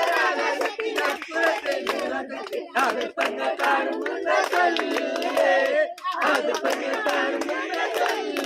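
A group of people singing together without accompaniment, shouting out the song and clapping their hands along with it.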